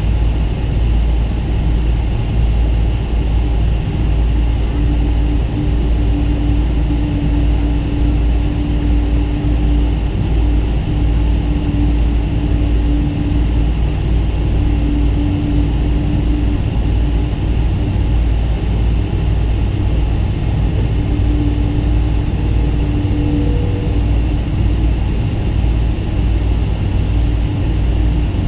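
Boeing 777-200 cabin noise in flight: a loud, steady deep rumble of engine and airflow noise through the fuselage, with a faint hum that comes and goes.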